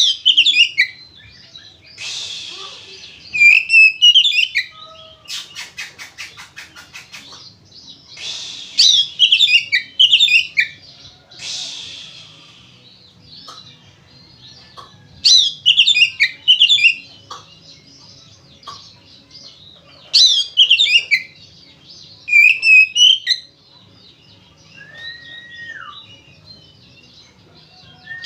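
Male oriental magpie-robin singing in full, loud voice: bursts of fast, jumping phrases and harsh rasping notes every few seconds, with a quick run of clicks in one pause and a single clear whistle near the end.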